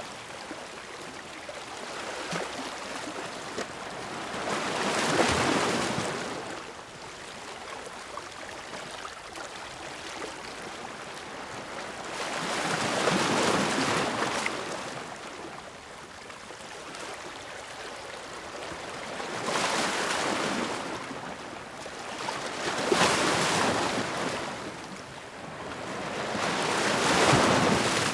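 Ocean waves crashing against rocks: a rushing surge of water breaks five times, with a softer steady wash between the breaks.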